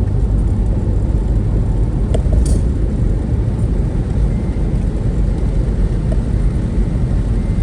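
Steady low rumble of a road vehicle travelling along the road, heard from on board.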